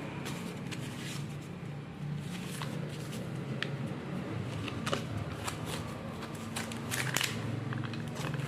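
Scattered light clicks and rustling, as of objects being handled, over a low steady hum.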